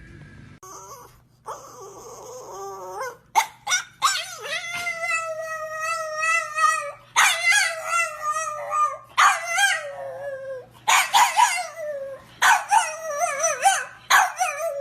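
A dog howling: a couple of short yips, then a run of about five long, wavering howls, each sliding down in pitch as it ends.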